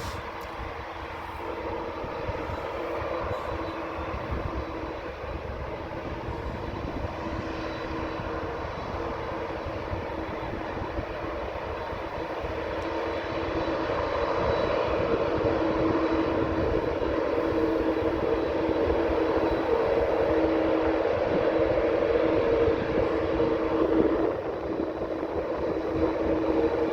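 Jet airliner engines running, a steady hum with two held tones, growing louder about halfway through.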